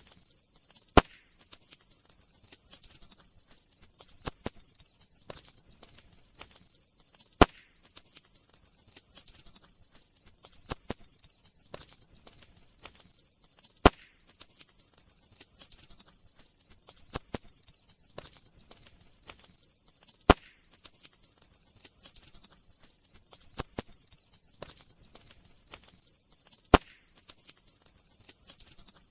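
Wood fire crackling: scattered small snaps over a steady soft hiss, with a loud pop about every six and a half seconds.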